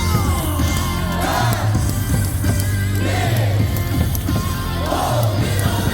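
Baseball stadium cheer music over the loudspeakers with strong bass, while a large crowd of fans sings and shouts along.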